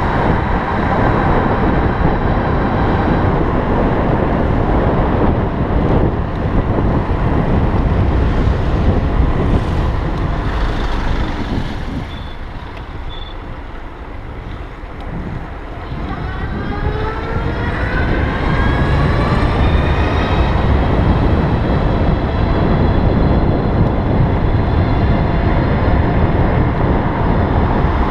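Wind and road noise on the microphone while riding a 1000 W electric bike. The noise drops off about halfway through as the bike slows, then the motor's whine rises in pitch for a few seconds as it accelerates again.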